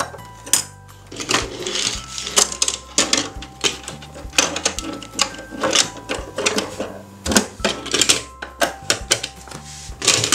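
Plastic roll-up doors of a toy bus garage clicking and clattering as a hand pushes them in and flips them open, with many sharp clicks throughout. A simple background tune plays underneath.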